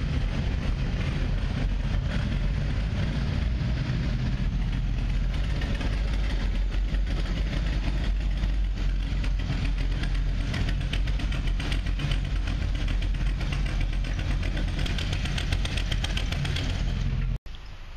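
BossHoss motorcycle's 502-cubic-inch (8.2-litre) ZZ502 big-block V8 running steadily, its exhaust muffled to meet Japanese noise rules. The sound cuts off abruptly near the end.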